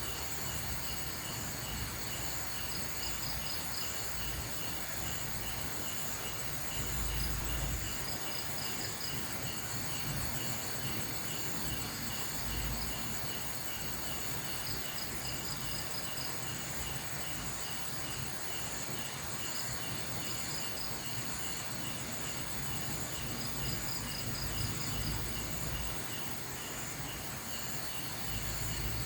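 Night insects, crickets among them, chirring steadily in the forest: one high trill pulsing in rapid even beats, another sounding in short chirp groups every few seconds, over a constant hiss. A few brief low bumps come through now and then.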